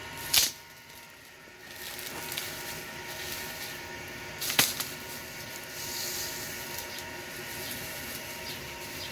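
Two sharp knocks about four seconds apart over a steady background hiss.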